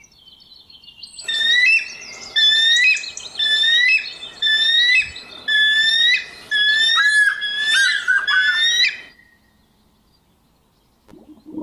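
A bird calling in a repeated series of whistled, upward-sweeping notes, about one a second. It stops abruptly about nine seconds in.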